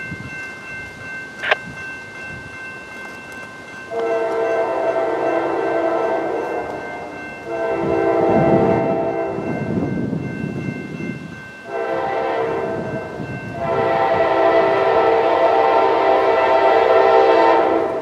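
Freight locomotive air horn sounding its chord in four blasts, long, long, short, long: the grade-crossing signal. A low rumble rises under the second blast.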